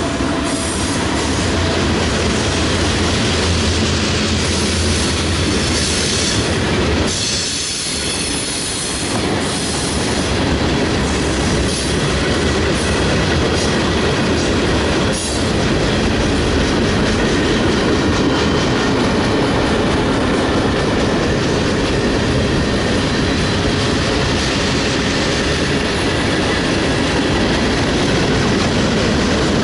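Mixed freight train's cars rolling past on the rails: a loud, steady rumble of wheels with clickety-clack over the rail joints and some wheel squeal.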